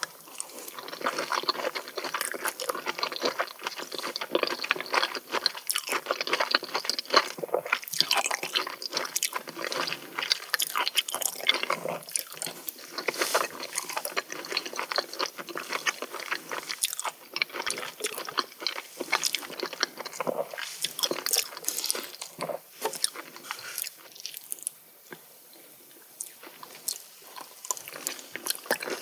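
Close-miked chewing of raw oysters: wet, squishy mouth sounds with many small clicks, easing off for a few seconds near the end and then starting again.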